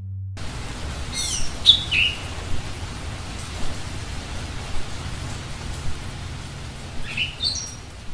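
Birds chirping over a steady hiss of background noise, after a low musical tone cuts off at the very start. Quick falling chirps come in a cluster about a second in and again near the end.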